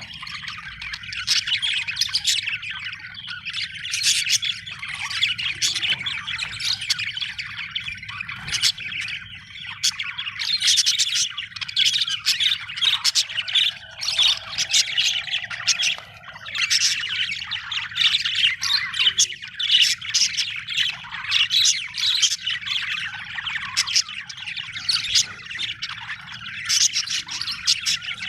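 Budgerigars chirping and chattering continuously in dense, rapid chirps and warbles, with a faint low hum underneath.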